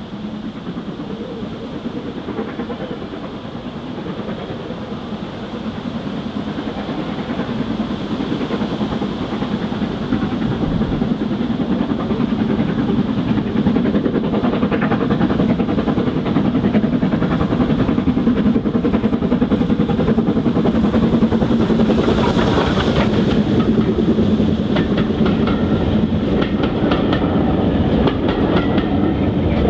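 Steam-hauled passenger train approaching and running past, growing louder over the first half and then staying loud, with the wheels clicking over the rail joints.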